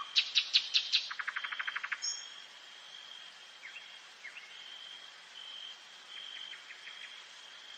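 Nightingale singing: a phrase of loud, sharp notes and then a fast rattling trill in the first two seconds, followed by a few quieter, scattered notes. A thin, steady high tone comes and goes behind it.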